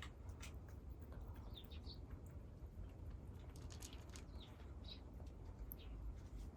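A few short, high bird chirps over scattered small clicks and crackles and a steady low rumble.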